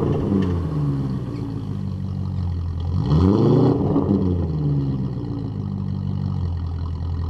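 BMW E34 530i's M60 V8 on a straight-pipe exhaust with no mufflers, idling. About three seconds in, a single throttle blip makes the revs rise and fall back, and then it settles to idle again.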